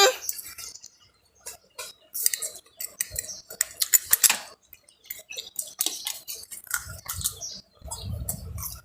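Spoons clinking against plates and bowls in irregular sharp clicks, with a low rumble near the end.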